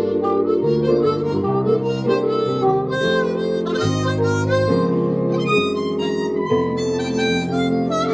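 Harmonica playing a mellow blues melody with bent, gliding notes, over low sustained chords that change about once a second.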